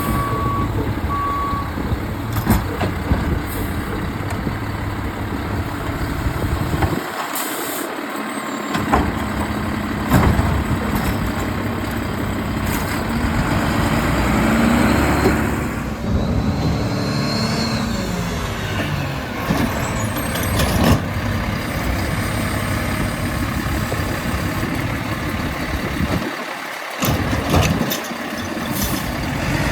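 Mack LEU garbage truck's diesel engine running with its Bridgeport rear-loader packer working, the engine rising and falling in pitch around the middle of the packing cycle, with scattered knocks. Two short beeps sound near the start.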